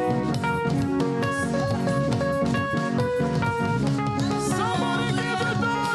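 Upbeat praise music with guitar and drums playing to a steady beat; a voice begins singing about four seconds in.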